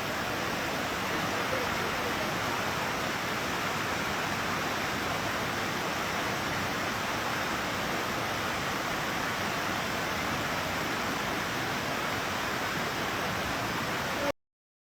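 Steady, even rush of flowing water with no rhythm or pitch, like a fast stream or small cascade. It cuts off abruptly near the end.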